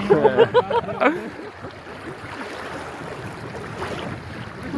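A man's voice briefly at the start, then a steady rush of river water.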